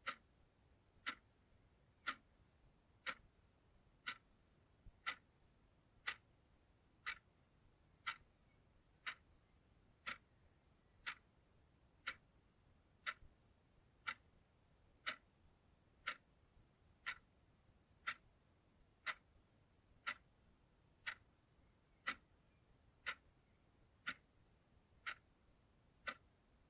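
Clock ticking steadily, one short, sharp tick each second.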